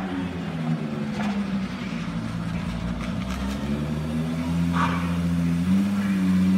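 Pontiac Firebird's engine running at low revs as the car rolls slowly forward, its note rising a little partway through, with a short hiss about five seconds in.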